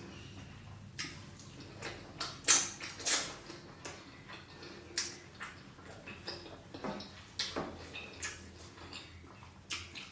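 Close-miked eating sounds: irregular wet mouth smacks and clicks while chewing, with the two loudest about two and a half and three seconds in.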